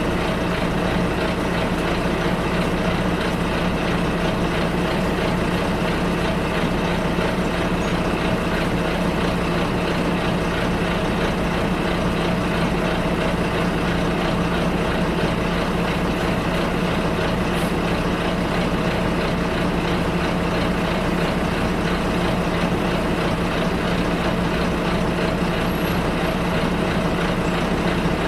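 Steady drone of a bus heard from inside the passenger cabin, engine and road noise running evenly with a constant low hum.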